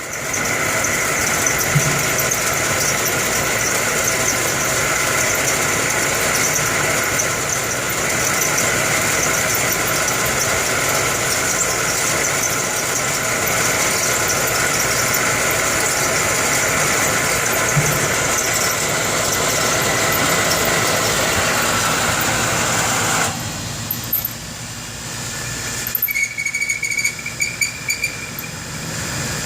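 Air conditioner condenser running with its fan motor squealing steadily from bearings that are going bad, a fault that is making the compressor overheat. About 23 seconds in, the sound drops suddenly, and a few irregular squeaks and chirps follow.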